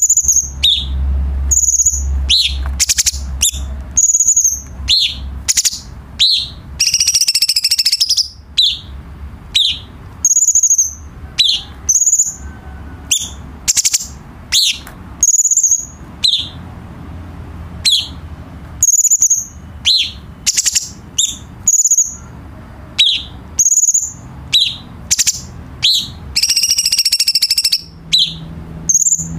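Cucak cungkok songbird calling: short, high, sharp notes, many dropping in pitch, repeated roughly once a second, with a longer buzzy rattling phrase twice. A low hum sits under the calls at times.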